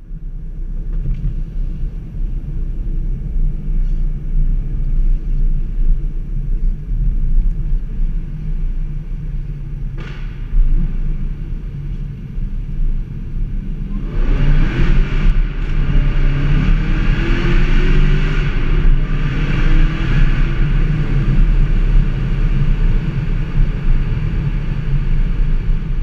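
Supercharged 6.2 L LSA V8 of a Cadillac CTS-V wagon with Corsa mufflers, heard from inside the cabin. It runs at a steady low rumble while cruising, then about halfway through goes to full throttle and gets much louder, its pitch rising through the gears with brief dips at the shifts.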